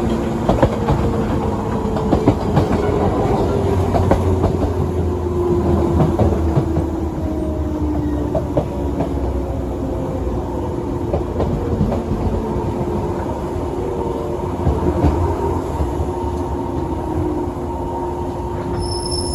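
JR 117 series electric train running, heard from inside the carriage: a steady rumble with scattered wheel-on-rail-joint clicks and a motor whine that falls slowly in pitch.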